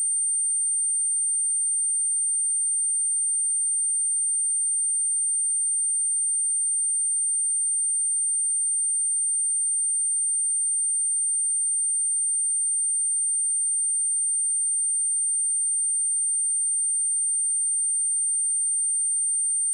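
A steady, unbroken high-pitched 8853 Hz sine-wave test tone, one pure pitch at constant loudness.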